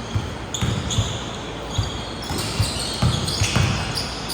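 A basketball bouncing repeatedly on the court, with high-pitched sneaker squeaks over the bounces.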